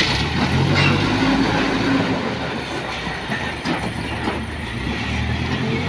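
A JCB backhoe loader's diesel engine working under load, with several short clanks and knocks from the bucket and stone.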